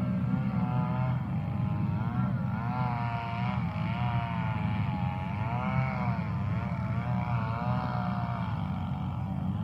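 Tractor engine running steadily, with a whine above it that wavers up and down in pitch.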